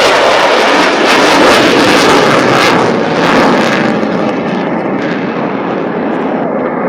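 Fighter jets flying past with a loud jet-engine roar that is strongest for the first three or four seconds and then fades as they move away.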